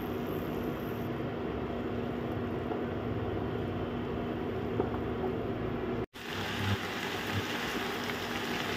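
Cubed potatoes and fenugreek leaves frying in oil in a nonstick pan, a steady sizzle with the spatula stirring through them, over a steady low hum. The sound drops out for an instant about six seconds in.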